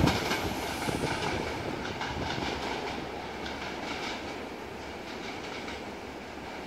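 Passenger train pulling away, its wheels rumbling and clattering on the rails and fading steadily as it recedes.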